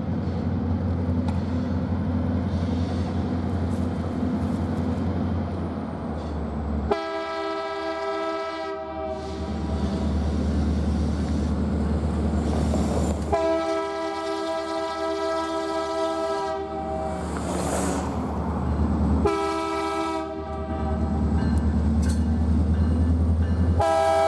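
Diesel locomotive of BNSF 2604 rumbling as it approaches, then its multi-chime air horn sounding the grade-crossing signal: two long blasts, a short one, and a final long one starting near the end.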